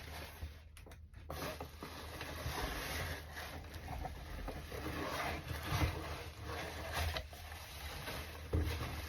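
Cardboard and packing material being handled and pulled apart: continuous rubbing and scraping with scattered small knocks and clicks.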